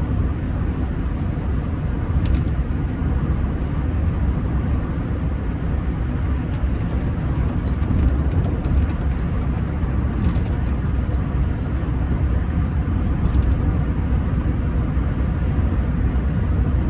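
Steady low rumble of road and engine noise inside the cabin of a Rolls-Royce Silver Spirit III on the move, with a few faint clicks.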